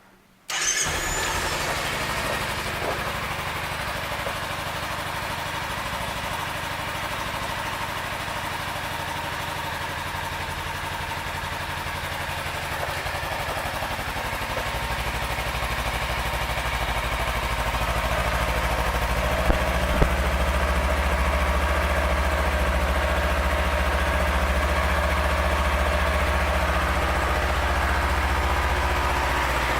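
Kawasaki Ninja 300's parallel-twin engine starting about half a second in and then idling steadily. It gets somewhat louder from about halfway through.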